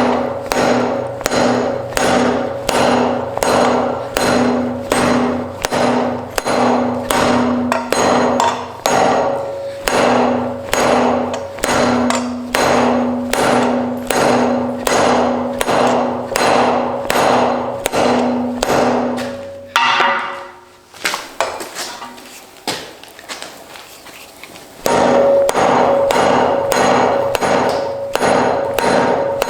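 Hammer blows on hot iron against an anvil, about two a second, each leaving a short metallic ring. The blows stop about twenty seconds in and start again some five seconds later with a higher ring.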